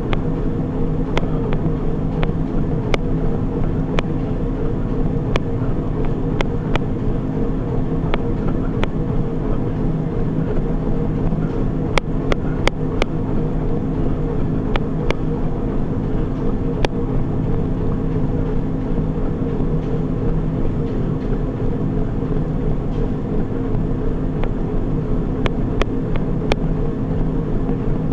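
Treadmill running steadily: a constant motor and belt hum with a few fixed low tones, and scattered light clicks at irregular moments.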